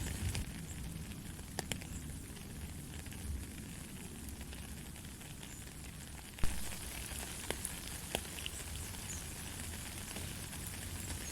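Steady light rain, with scattered drops ticking on nearby surfaces and one sharper drip about six and a half seconds in.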